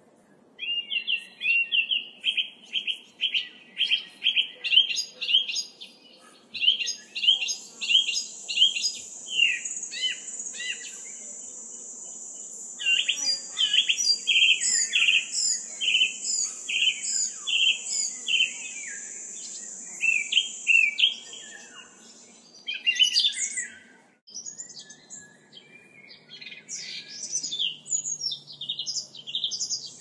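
Birds chirping in quick repeated notes, several a second. A steady high-pitched buzz joins in about seven seconds in and stops around twenty-one seconds. The sound drops out briefly about twenty-four seconds in, then the chirping and buzz return.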